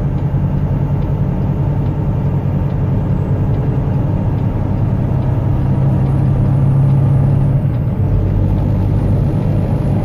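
Semi truck's diesel engine pulling steadily while the truck accelerates on the highway, heard from inside the cab. Its low drone drops in pitch about eight seconds in, as the truck shifts up a gear.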